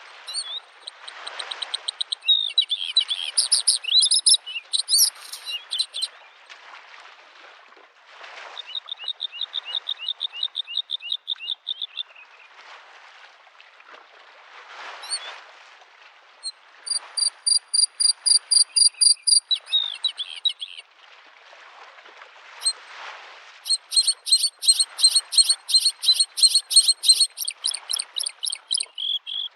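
Bluethroat singing: four phrases of fast repeated notes and trills, one a varied run of notes near the start, the others long strings of quick identical notes. Underneath, small waves wash against the lake shore, swelling and fading every second or two.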